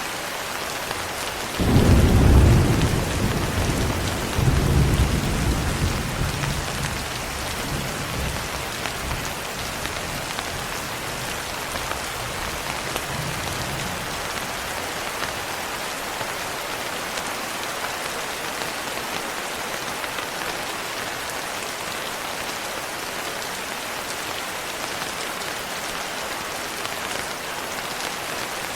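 Steady rain, with a sudden clap of thunder about two seconds in, a second swell a couple of seconds later, and the rumble dying away over the next few seconds.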